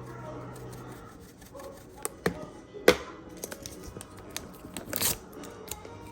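Kitchen handling sounds while chicken is being seasoned: a few sharp clicks and knocks, the loudest about three seconds in, then a brief tearing rustle near five seconds. A TV plays faintly underneath.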